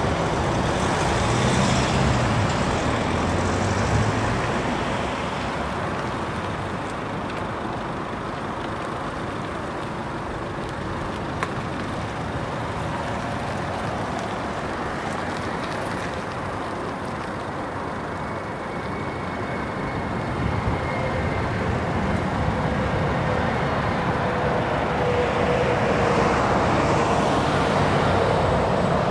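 A train passing over the level crossing: a steady rumble of wheels on the rails for the whole stretch. A faint steady whine joins in over the last several seconds.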